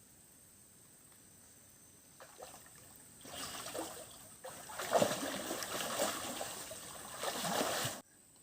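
Water splashing and sloshing in a shallow river, starting about two seconds in, getting louder and more irregular, then cutting off abruptly near the end.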